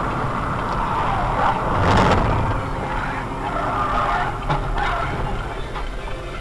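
Car tyres skidding and squealing on the road, a rushing scrape with wavering squeal tones, loudest about two seconds in.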